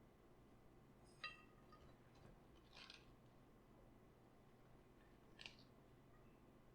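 Faint kitchen handling sounds during sauerkraut preparation: a light clink with a short ringing note about a second in, then two brief crisp rustles a few seconds apart.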